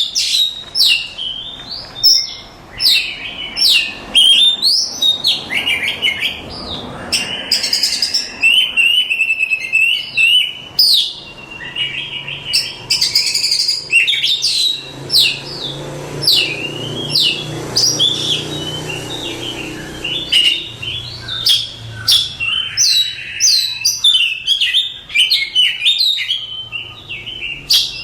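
Oriental magpie-robin (kacer) singing without pause: a fast, varied stream of sharp whistles and chirps.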